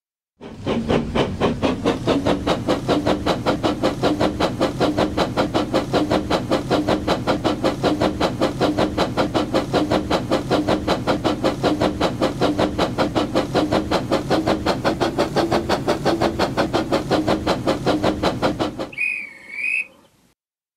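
Steam train chuffing at a steady pace, about four chuffs a second, then a short wavering whistle toot near the end.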